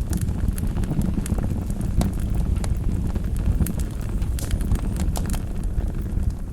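Wood fire burning in a fireplace: a steady low rumble of flames with frequent sharp crackles and pops, a cluster of them near the end.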